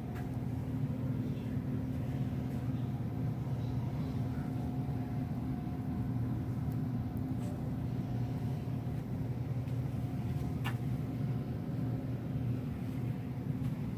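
Steady low mechanical rumble with a hum, holding even throughout, and one faint click about two-thirds of the way through.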